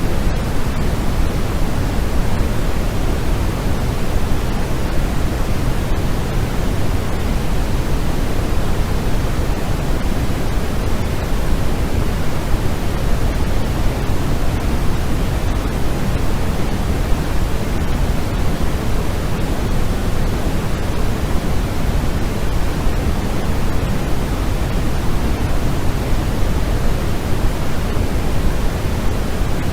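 Steady, unchanging electronic noise of the kind sold as white noise for sleep. It has a deep, full hiss with most of its weight in the lows, thinning toward the highs, and no breaks or events.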